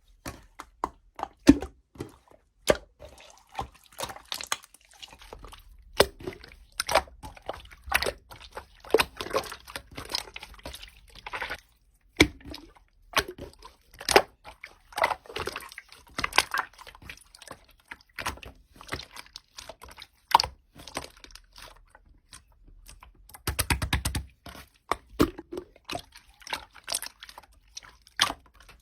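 Slime being squeezed, poked and stretched by hand: an irregular run of sticky wet clicks and pops, with a louder squelching stretch about two-thirds of the way through.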